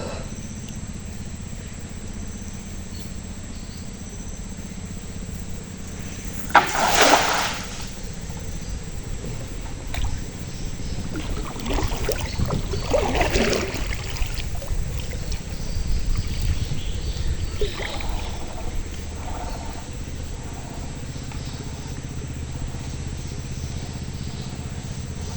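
Water splashing and pouring over a steady low hum: a sharp splash about seven seconds in, then further bouts of pouring and dripping water, as a cast net is thrown and hauled in for prawns.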